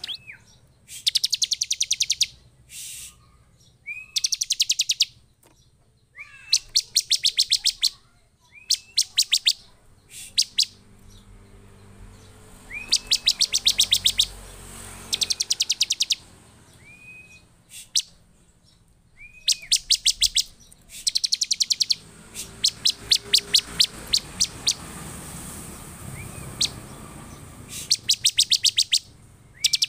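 Bar-winged prinia (ciblek) calling: each phrase starts with a short rising note and runs into a fast series of sharp repeated chips lasting a second or two, repeated every few seconds.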